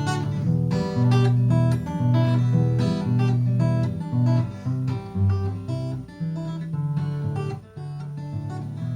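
Acoustic guitar strumming chords in the instrumental ending of a song, with no singing.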